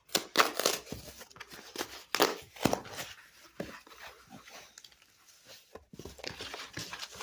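A shipping mailer of comics being handled and opened by hand: a run of crackles, scrapes and rustles of packaging, busiest in the first few seconds and again near the end.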